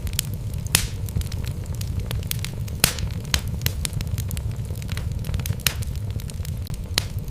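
Wood logs burning in a fireplace, crackling with frequent sharp pops over a steady low rumble of the flames. A few louder pops stand out, about three-quarters of a second in, near three seconds, and near the end.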